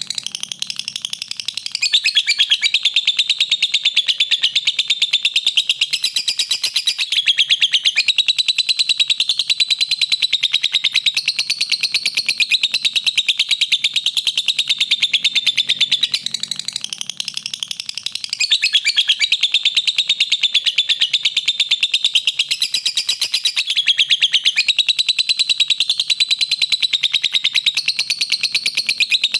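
Lovebird chattering in one long, unbroken run of rapid, high chirps, briefly softer twice.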